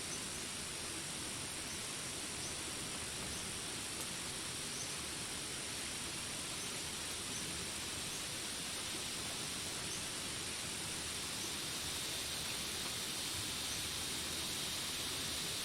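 Steady rain with a continuous high insect drone over it, and faint short chirps repeating a little more than once a second. A higher insect tone joins about twelve seconds in.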